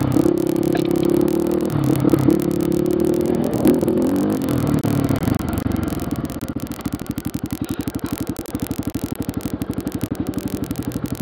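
Enduro motorcycle engine running under throttle, with a few sharp knocks over the first few seconds. About six seconds in it drops to a steady, evenly pulsing idle as the bike rolls to a stop.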